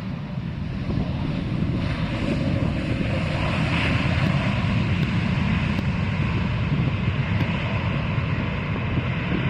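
Jet airliner's engines heard as it comes in to land, the rumbling noise swelling over the first couple of seconds and then holding steady.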